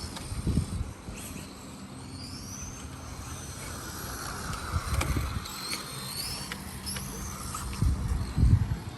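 Electric 1/10 RC touring cars running on the track, their motors giving high whines that rise and fall as they accelerate and brake. A few low thumps stand out, the loudest about half a second in and near the end.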